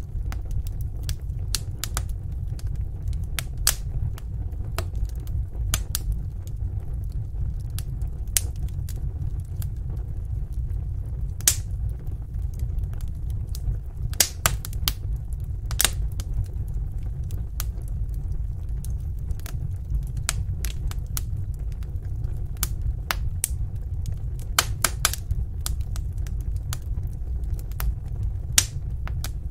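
Wood fire burning in a fireplace: a steady low rumble of flames with irregular sharp crackles and pops scattered throughout, a few louder pops standing out.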